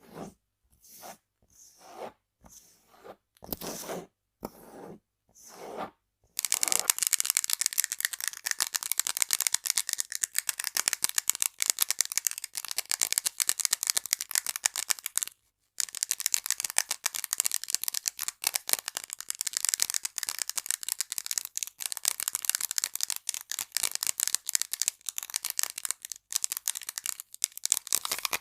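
Close-miked ASMR tapping and scratching on a handled object: about eight short separate strokes, then from about six seconds in a dense, fast crackle of rapid taps and scratches, broken once by a brief pause near the middle.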